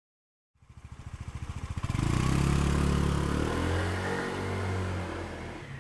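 Honda PCX125 scooter's single-cylinder engine revving up as the scooter pulls away, running loud and steady, then its note drops and fades as it rides off.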